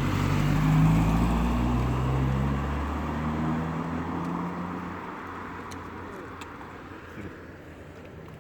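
A car driving past with its engine note shifting in pitch, loudest about a second in and then fading away over the next few seconds.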